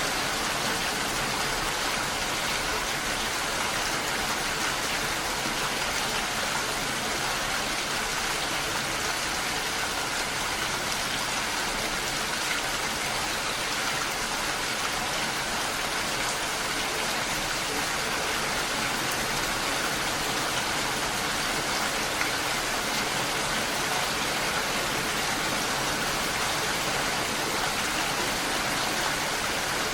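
Steady, even rain falling continuously.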